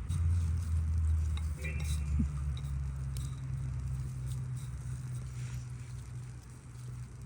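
Food sizzling in a pan over a fire, with a few light clicks, under a steady low hum that starts suddenly and is the loudest thing heard.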